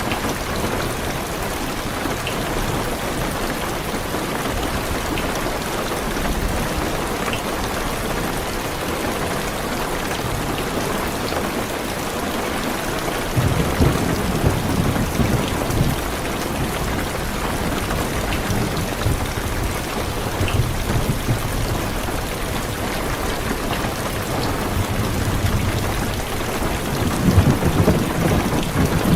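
Heavy rain drumming steadily on a car's roof and windows, heard from inside the car. Rolling thunder rumbles in about halfway through and again, louder, near the end.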